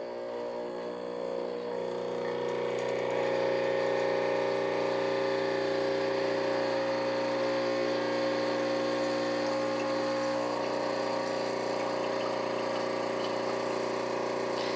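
Espresso machine's pump running steadily as it brews, a humming drone that grows louder with a rush of water about two seconds in.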